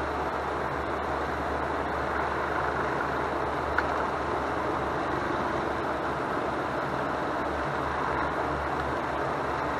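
Steady rushing background noise with a single short tap about four seconds in.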